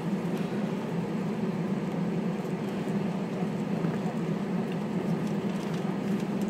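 Airbus A320 cabin during taxi: the steady drone of the jet engines at low thrust, with the cabin's air hiss.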